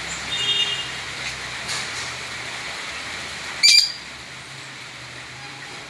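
Steady rain hiss with bird chirps: a short chirp near the start and one loud, sharp call a little over three and a half seconds in.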